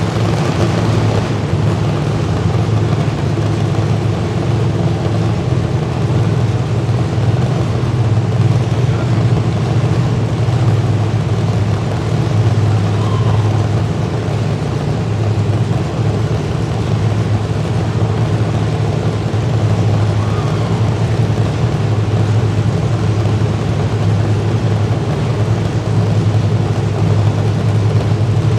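Demolition derby car engines running, a steady loud low rumble without clear crashes or breaks.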